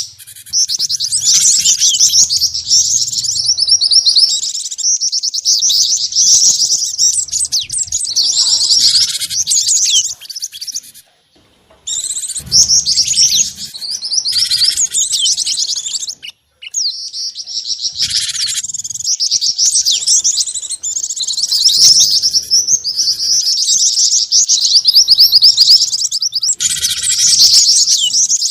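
Bird-lure recording of small songbirds, a dense, loud mix of rapid high chirps and twitters layering the calls of gelatik batu (cinereous tit), jingjing batu and mantenan. The track cuts out briefly twice, near the middle.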